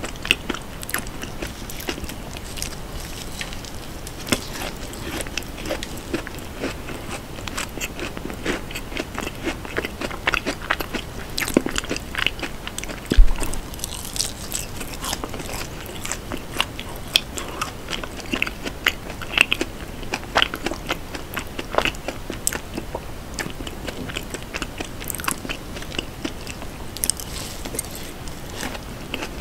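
Close-miked chewing of a soft brownie: wet, sticky mouth sounds with many small clicks and crackles, and now and then a bite. About thirteen seconds in there is one louder thump.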